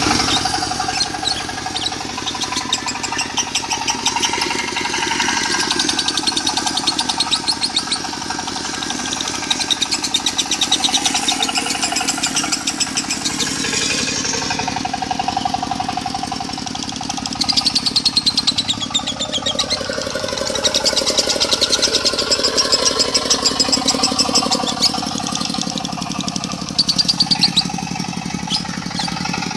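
Lovebird singing in the long, rapid, continuous chattering 'konslet' style, in runs of several seconds, over a diesel engine running steadily.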